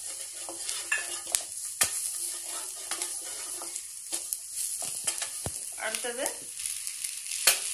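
Chopped onion, garlic and chilli flakes sizzling in hot oil in a pan, stirred with a wooden spatula that scrapes and taps against the pan many times.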